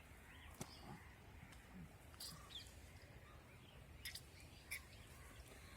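Near silence: a faint outdoor background with a few soft clicks and short, faint bird-like chirps.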